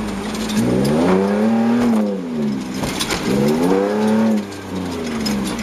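Inside the cabin of a Toyota Land Cruiser Prado 150 rally car on a dirt stage: its 2.8-litre diesel engine revving up and easing off again and again, the pitch climbing in long sweeps and falling back, dropping off briefly about four and a half seconds in. Sharp clicks ring out over the engine.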